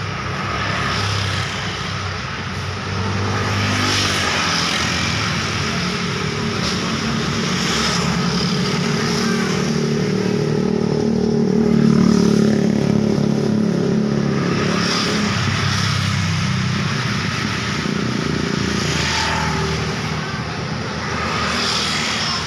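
Road traffic: vehicles passing one after another, their engines and tyres making a continuous noise that swells with each pass, loudest about halfway through.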